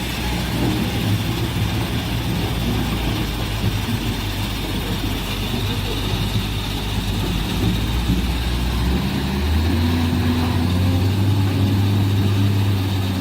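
Large diesel engine of heavy earthmoving equipment running steadily. Its note steps up in pitch about nine seconds in and holds at the higher speed.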